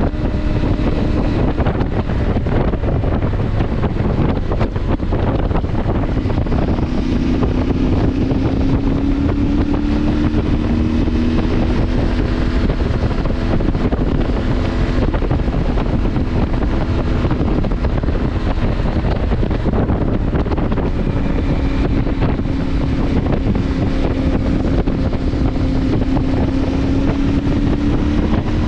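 CFMoto motorcycle engine running at a steady cruising speed under heavy wind buffeting on the microphone, the engine note drifting slowly up and down in pitch.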